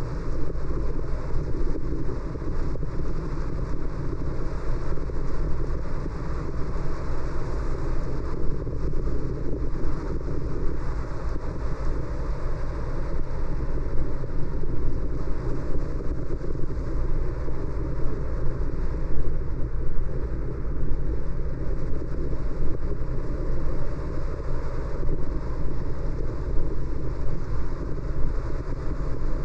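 Steady noise of a car driving along a city street: tyre and road noise with a low rumble, even throughout.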